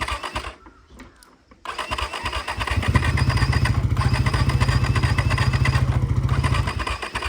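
Motorcycle being cranked on its electric starter, with a rapid pulsing whirr. A short attempt stops just after the start; a longer attempt begins about a second and a half in, turns heavier with a deep thudding, and cuts off suddenly near the end.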